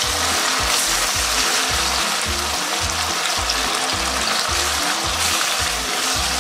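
Chicken skin frying in a wok, sizzling steadily in its own fat. Background music with a steady low beat plays along.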